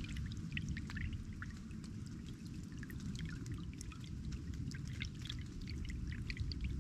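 Water trickling and splashing steadily, with many small drip-like plinks over a low, continuous rush.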